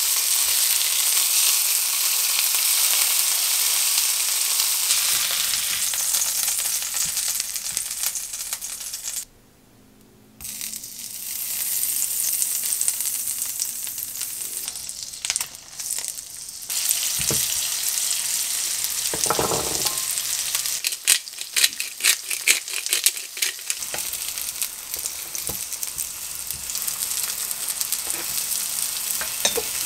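Food sizzling in a nonstick frying pan: a thick steak searing with rosemary, then, after a brief break about nine seconds in, butter and onion slices with garlic cloves frying. A run of sharp clicks and taps from the tongs and spatula on the pan comes about two-thirds of the way through.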